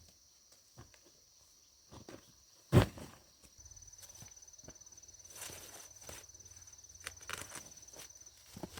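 Soft, evenly spaced footsteps on the ground with a steady high-pitched insect drone behind them. There is one loud knock about three seconds in, and after it a low rumble of movement.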